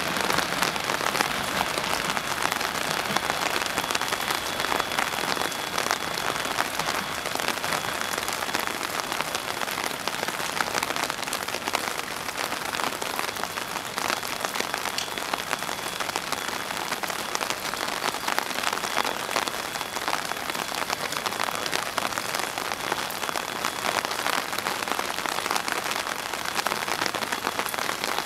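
Steady rain falling on a wet concrete railway platform and its puddles: an even, dense patter of drops.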